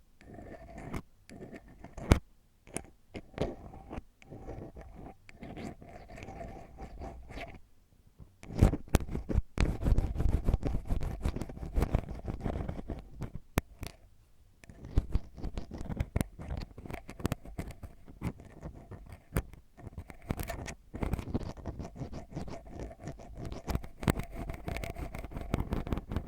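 Ear-cleaning ASMR: an ear pick scratching deep inside a microphone's ear, giving close, crackly scratches and clicks. It is sparser at first, then much denser and louder from about a third of the way in, with a brief lull in the middle.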